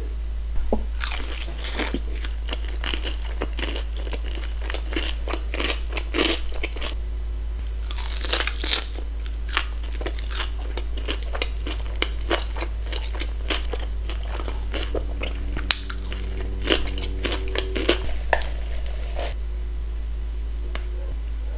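Close-miked biting and chewing of crispy breaded fried chicken tenders and toasted bread, with many sharp crunches over a steady low hum.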